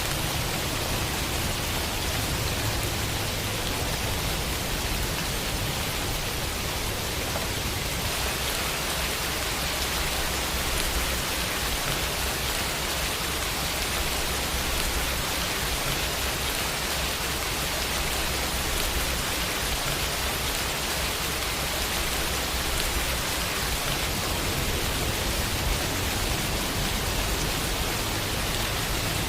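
Steady rain falling on a window, an even hiss of rainfall that does not change.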